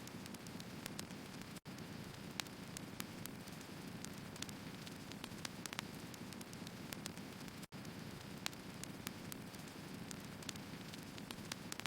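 Firewood burning in a fire: a steady hiss with many sharp crackles and pops scattered throughout. The sound cuts out for an instant twice, near two seconds in and again near eight seconds.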